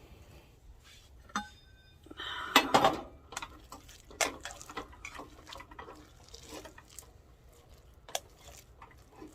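A utensil clinking, scraping and knocking against a metal cooking pot as freshly cooked rice is scooped out. There is a ringing clink about a second and a half in, the loudest scraping and knocking a second later, then scattered lighter clinks.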